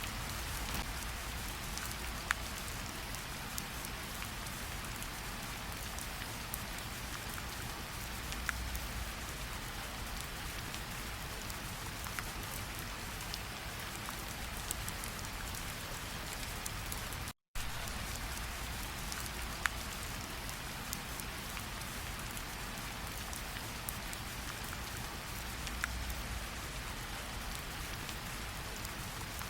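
Steady rainfall, with single drops ticking sharply now and then. The sound cuts out completely for a split second about seventeen seconds in.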